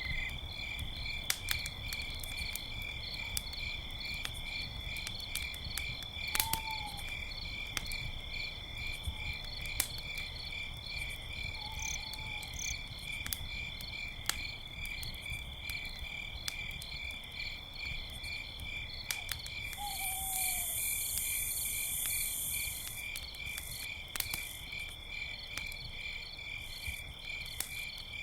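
Crickets chirping steadily, a continuous high trill with a pulsing chirp under it, over a crackling campfire with scattered sharp pops. A few short, faint low calls sound now and then.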